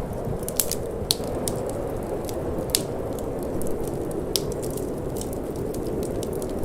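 Wood fire crackling in a fireplace, with irregular sharp pops, several of them loud, over a steady low rushing noise of cold wind.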